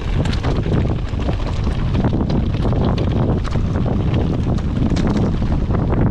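Wind buffeting the camera microphone in a heavy low rumble, with rapid irregular clicks and rattles from a mountain bike riding over rough, rocky ground.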